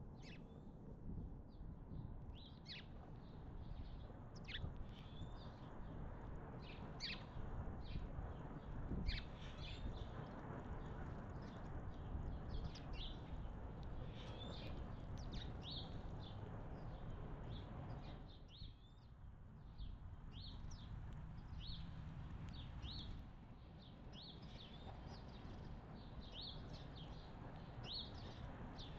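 Small birds chirping: many short, sharp chirps repeated again and again, over a steady low background rumble.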